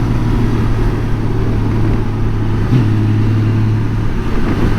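2018 Honda Gold Wing's flat-six engine running steadily under way, with a brief change in the engine note about three seconds in.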